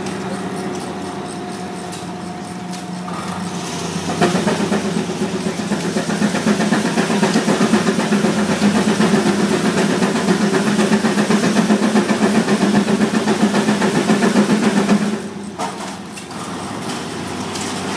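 Keck Gonnerman steam engine driving a sawmill. About four seconds in, the sound grows louder with a fast rhythmic beat, holds for about eleven seconds, then drops back to a steadier hum.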